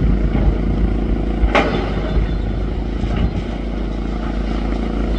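Demolition machine's diesel engine running steadily, with a sharp crack about a second and a half in and a lighter knock a little after the midpoint.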